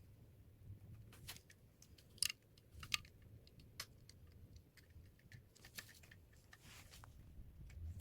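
Faint, scattered clicks and taps of plastic LEGO pieces being handled during building, the two sharpest about two and three seconds in.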